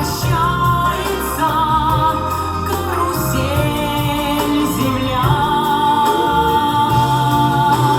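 A woman singing a slow song over instrumental backing, holding a long note with vibrato in the second half.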